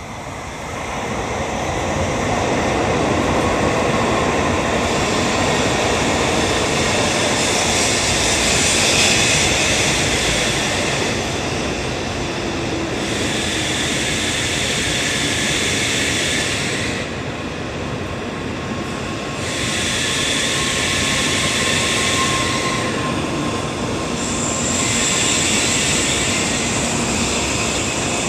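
Tokaido Shinkansen high-speed train running in alongside the platform: a loud, steady rush of wheels on rail and air that swells over the first two seconds. A higher hiss comes and goes in stretches of a few seconds.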